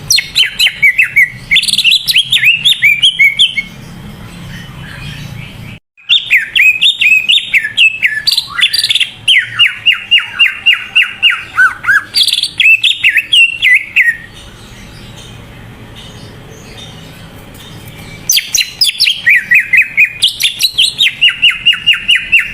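Greater green leafbird (cucak ijo) singing in full voice: three long runs of fast, repeated whistled chirps and trills, each a few seconds long, separated by short pauses.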